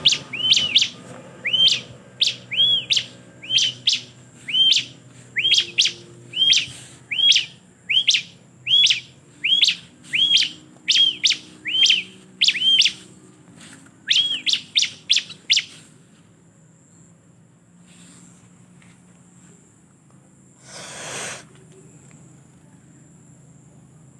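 Ciblek (bar-winged prinia) calling: a long run of sharp, quickly repeated notes, about two a second, each dropping steeply and then arching. The calls stop about two-thirds of the way through. A brief noisy rustle-like burst comes near the end.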